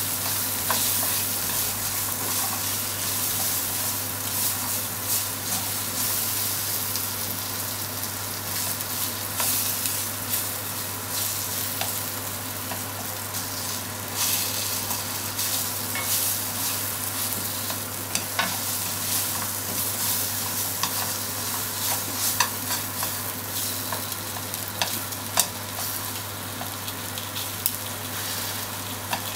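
Sliced pork and onion sizzling steadily in oil in a frying pan as they are stir-fried, with scattered short clicks of the cooking chopsticks against the pan as the pieces are turned.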